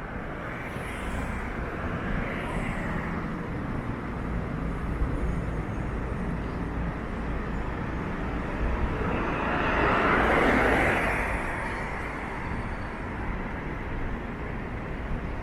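City street traffic: a steady low hum with a vehicle passing by, swelling to its loudest about ten seconds in and then fading.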